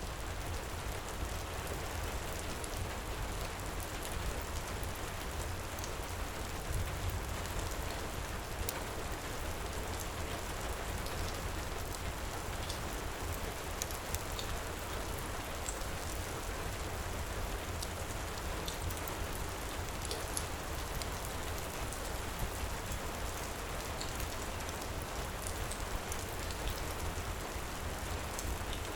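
Heavy, steady rain falling, with faint, scattered crackles of a wood fire in a fireplace.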